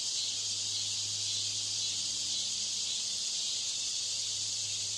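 Steady high-pitched hiss with a low electrical hum underneath. This is noise deliberately laid over the test audio to imitate a poor exam-hall broadcast system.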